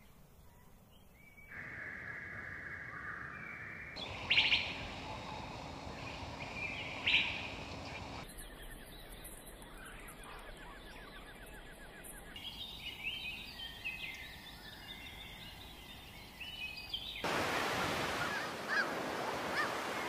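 Several different outdoor bird recordings spliced one after another, the background changing abruptly every few seconds: assorted chirps and whistled songs, two loud sharp calls around four and seven seconds in, and a rapid trill just after eight seconds. From about seventeen seconds a louder steady rushing noise takes over.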